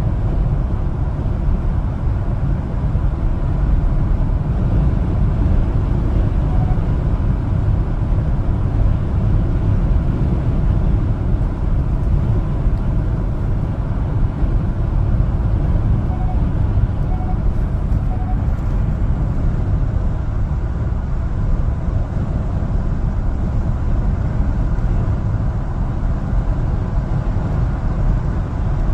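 One-ton LPG cargo truck driving on the road: a steady low engine and road-noise rumble without pauses.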